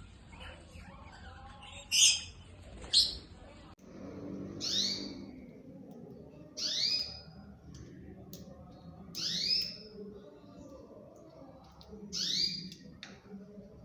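Pet birds calling: two loud, harsh squawks about two and three seconds in. After that, a call sweeping upward in pitch repeats about every two and a half seconds.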